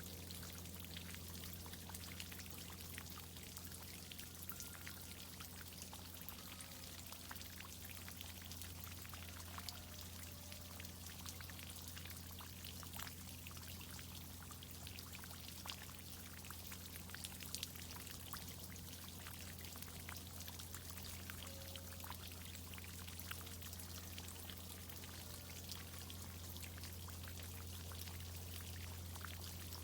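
Water from a tree irrigation system pouring and splashing steadily, with many fine drips, over a steady low hum.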